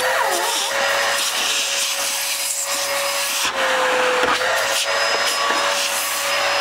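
Samsung SC56B0 vacuum cleaner running on a replacement SİX motor: a steady whine over a rush of air. The pitch sags slightly about four seconds in.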